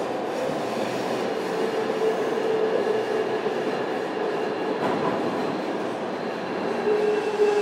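JR Kyushu 305 series electric train running, heard from inside its motor car: a steady rumble of wheels on rail with a humming tone that grows louder about two seconds in and again near the end.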